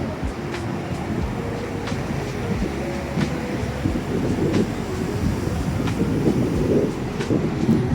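Steady rumbling roar of passing traffic, with wind buffeting the microphone.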